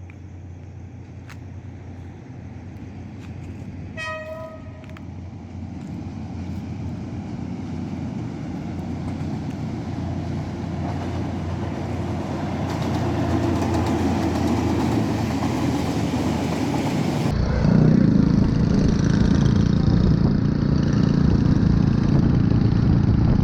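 Steady vehicle and road noise that grows gradually louder, with a brief horn toot about four seconds in.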